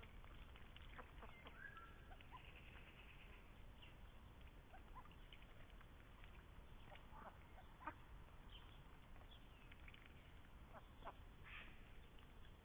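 Faint, scattered quacks and short calls of Indian Runner ducks.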